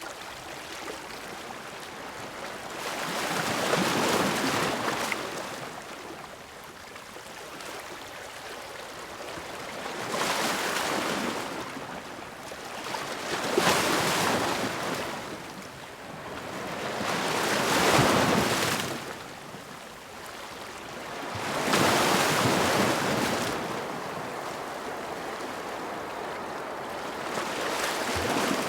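Ocean waves washing in: a steady hiss of surf that swells and falls back in a slow rhythm, five or so waves breaking one after another.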